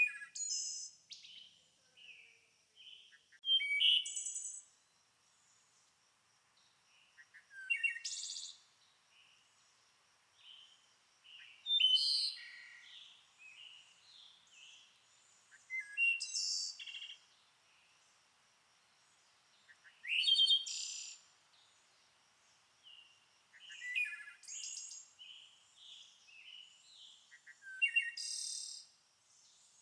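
Songbirds singing: a loud, high-pitched phrase about every four seconds, with quieter chirps in between.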